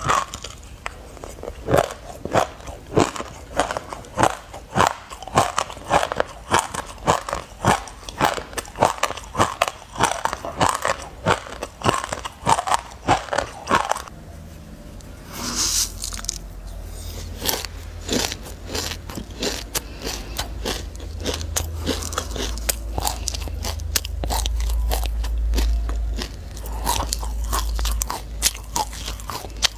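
Close-miked chewing of a mouthful of dry black sesame seeds: crisp, gritty crunches about twice a second. About halfway it changes to sparser crunches with a brief high scrape and a low rumble underneath.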